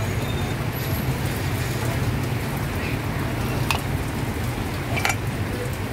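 Heavy rain falling steadily on surfaces, an even hiss over a low steady hum, with two sharp clicks in the second half.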